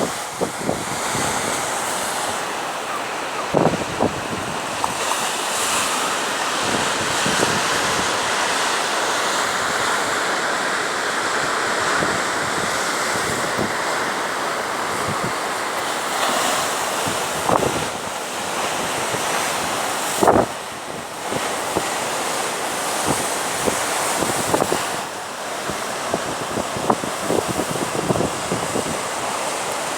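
Sea waves washing steadily, with wind buffeting the microphone. A few short knocks break through, the loudest about twenty seconds in.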